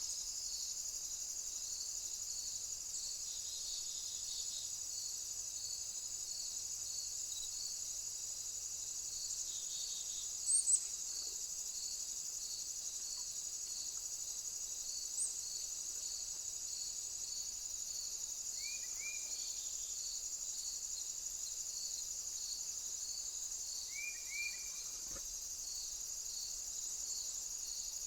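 Steady high-pitched insect chorus with a cricket chirping at a regular pulse, a little more than once a second. A few short high bird chirps stand out, the loudest about ten seconds in, and short paired calls come near 19 and 24 seconds.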